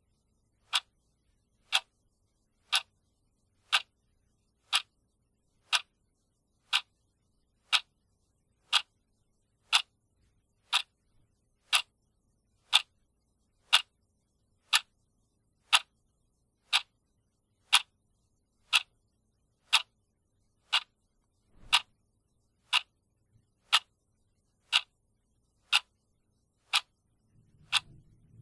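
Clock ticking steadily, one sharp, even tick each second.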